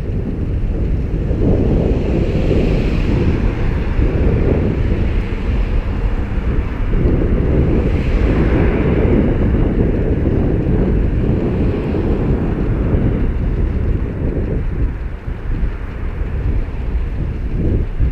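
Loud, steady wind buffeting the microphone of a camera riding on a moving bicycle, with road traffic behind it that swells twice, about two and eight seconds in.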